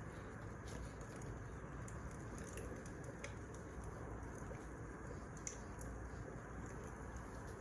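Wood fire burning: a steady low hiss with scattered sharp crackles and pops, the loudest about five and a half seconds in.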